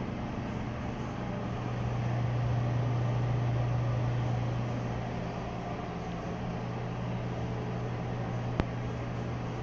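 Broan exhaust fan running with a steady low hum and airflow hiss, swelling louder for a couple of seconds about two seconds in. A single sharp click near the end.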